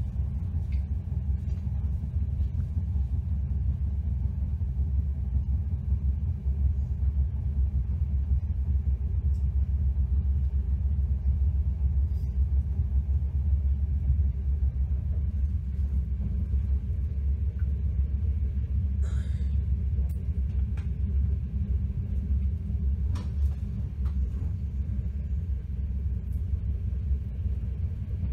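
Steady low rumble of a moving passenger train, heard from on board, with a few faint clicks.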